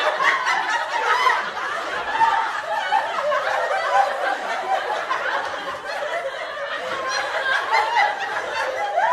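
People chuckling and snickering in fits of laughter, the bursts of different laughs overlapping with no break.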